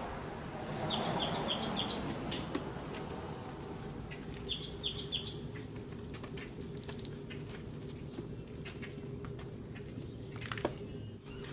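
A bird singing twice, each time a quick run of short, high, falling chirps, over a steady low hum and scattered light ticks.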